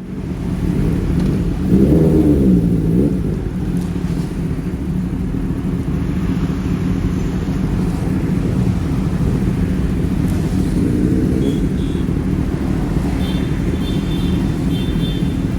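Sport motorcycle engine running with a steady rumble, its revs rising and falling briefly about two seconds in and again later.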